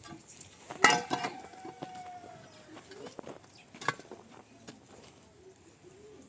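A sharp knock, with a ringing tone that sustains for over a second and sinks slightly in pitch, then a second, shorter knock about three seconds later amid small clicks and taps.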